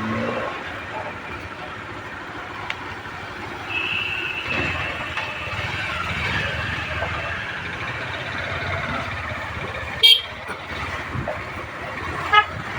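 Motorcycle riding along a road: steady engine and road rumble, with a sharp knock about ten seconds in and a brief horn toot near the end.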